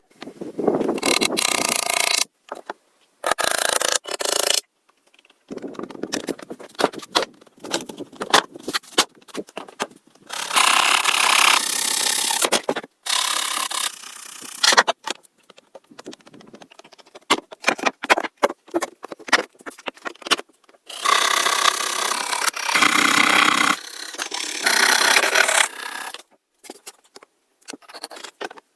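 Wood being worked with hand tools: stretches of scraping noise a second or two long, broken up by clicks and knocks, starting and stopping abruptly.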